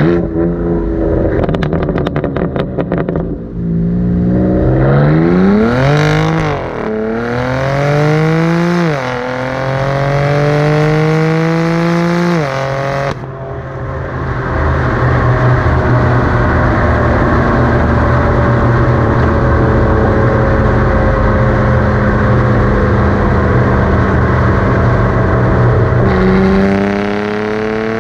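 BMW M3 F80 Competition's twin-turbo straight-six through an AC Schnitzer exhaust: a rapid crackle at first, then hard acceleration with the note climbing and dropping at gear changes, twice in quick succession and then after a longer pull. After that comes a long steady cruise with road and wind noise and a slowly falling note, and the engine pulls again near the end.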